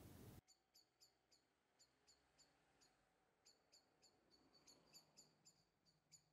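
Near silence with faint, high bird chirps, short and repeated two or three a second. A low hiss at the very start cuts off abruptly.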